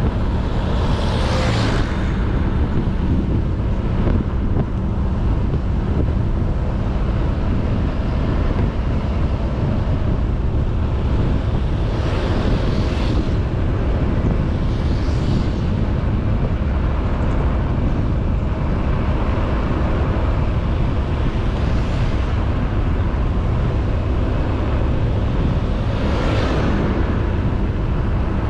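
Honda Beat 110cc single-cylinder scooter running steadily at road speed, with wind rushing over the microphone. A handful of brief whooshes rise and fade through the ride.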